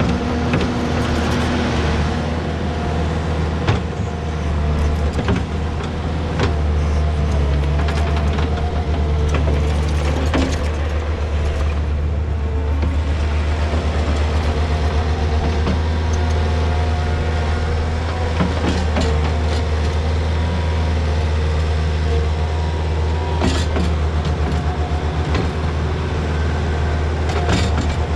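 Takeuchi TL230 skid steer's diesel engine running steadily under work while it strips sod, with a few sharp clanks and knocks.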